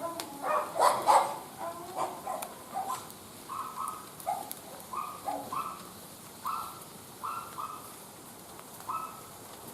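A dog barks a few times about a second in, then gives a run of short, clipped calls at two alternating pitches, evenly spaced.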